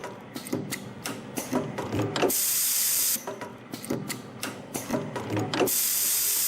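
CNC extension-spring coiling machine forming 0.7 mm wire springs in a repeating cycle about every three and a half seconds: a run of sharp mechanical clicks and knocks, then about a second of loud hiss, twice.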